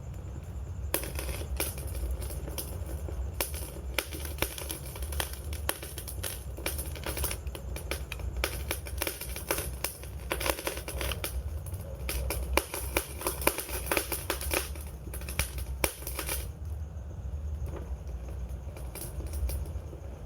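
Wood fire crackling: many sharp pops and snaps over a steady low rumble. The crackles thin out for the last few seconds.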